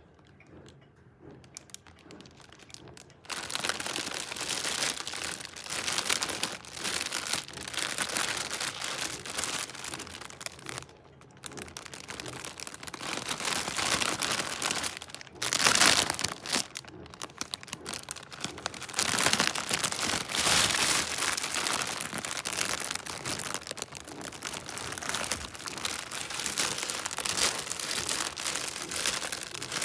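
Crinkly snack-bag packaging rustling and crackling as it is handled close to the microphone. It starts faintly, grows loud about three seconds in, drops off briefly near the middle and peaks sharply a few seconds later.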